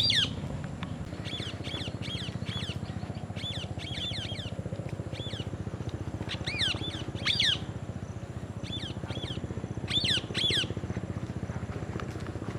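Parrots chirping: runs of short, high chirps that slide down in pitch, with louder calls about six and a half to seven and a half seconds in and again around ten seconds in. A steady low hum runs underneath.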